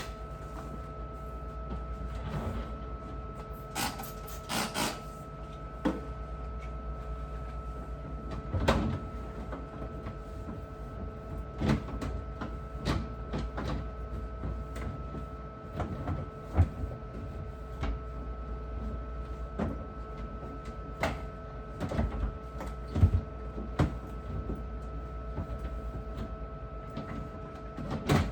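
Scattered knocks and clatters of fridge shelves, drawers and items being handled and set down during cleaning, over a steady hum.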